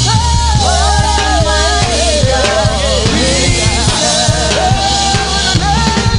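Live gospel praise music: a band with drum kit and heavy bass playing at full volume under a wavering, melismatic vocal line.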